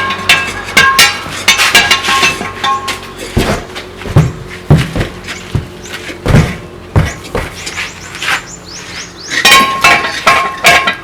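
Repeated hammer blows on metal during truck tyre and wheel work: quick runs of sharp knocks, with a few heavy dull thuds in the middle.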